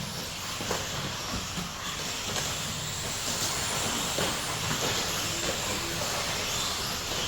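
Electric 13.5 stadium trucks racing round a dirt track: a steady hiss of brushless motors and tyres on the dirt, with a few faint knocks.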